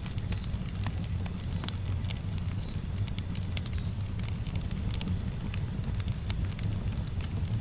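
Campfire burning, with frequent sharp crackles and pops over a low steady rumble.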